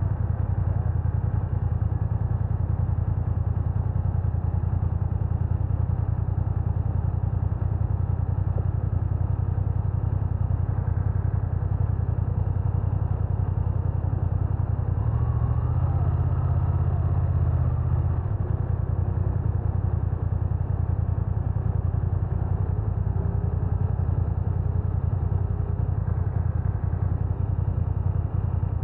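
BMW F900R motorcycle running steadily with a strong low rumble, growing louder for a few seconds about halfway through.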